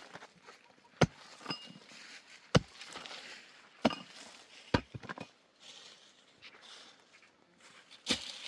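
A series of sharp knocks: about five hard strikes spaced irregularly one to three seconds apart, with faint shuffling and rustling between them.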